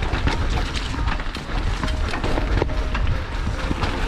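Wind buffeting the microphone over a mountain bike's tyres rolling down a rough dirt trail, with the bike rattling and clicking over the bumps.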